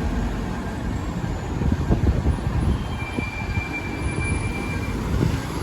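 Fire engine's diesel engine running with a low rumble while it backs in, with a thin steady high tone for about two seconds in the middle.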